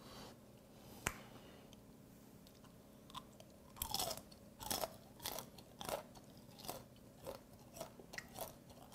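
Close-up chewing of steamed bear shrimp eaten shell and all. The hard shell crunches between the teeth in short, irregular bites, starting about three seconds in and coming roughly every half second.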